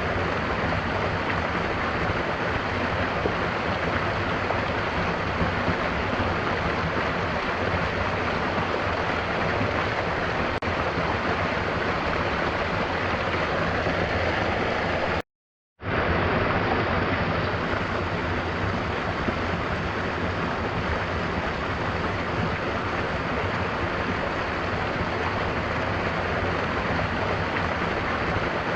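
Steady rushing of falling water, a waterfall with rain, as an unbroken even wash of noise. It cuts out completely for about half a second near the middle, then resumes.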